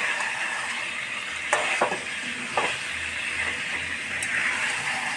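Marinated chicken pieces sizzling steadily in hot oil with the spice masala, stirred in the pan, with a few short scrapes or knocks of the spoon against the pan.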